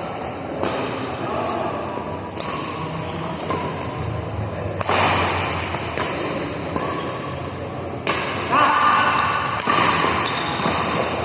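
Badminton rally in a large echoing hall: sharp racket-on-shuttlecock hits every couple of seconds, with players' voices and calls in between, louder near the end.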